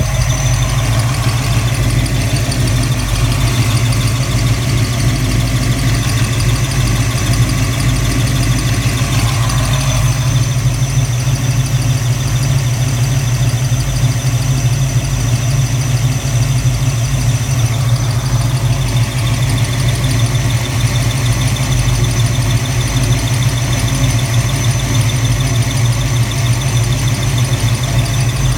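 331 V8 engine idling steadily at operating temperature with a thin, steady high-pitched squeal from the rear of the engine. The owner is unsure whether it is a bearing; the flex plate looks uncracked and is secured to the torque converter.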